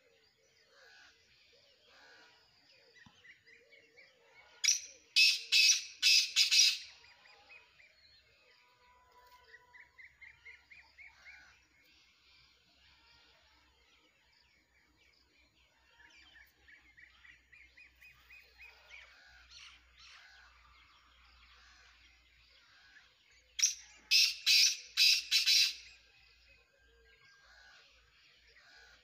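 Black francolin (kala teetar) calling: two loud, harsh phrases of about six quick notes each, a few seconds in and again near the end. Softer bird chirps and trills fill the gaps between them.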